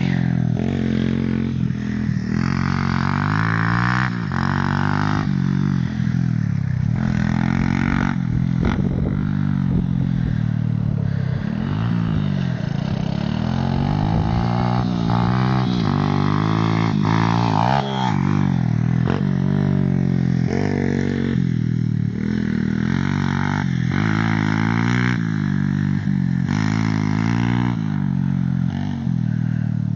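Small motorcycle engine revving up and down over and over, its pitch rising and falling every few seconds as the rider opens and closes the throttle.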